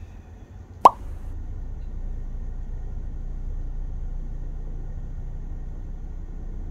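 Car engine starting up, heard from inside the cabin: a single short, sharp sound about a second in, then the engine running steadily at idle with a low, even sound.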